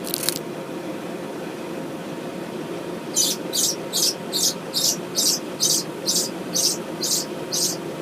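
A bird giving short, high chirps over and over, about two a second, starting about three seconds in, over a steady low hum. A brief click comes right at the start.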